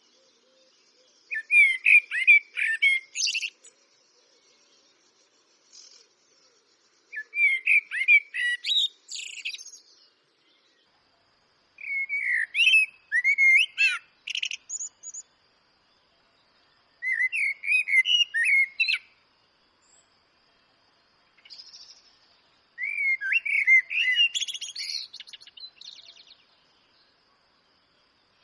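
Eurasian blackbird singing: five unhurried phrases of low, fluting warbled notes, each ending in a high squeaky twitter, with pauses of a few seconds between phrases.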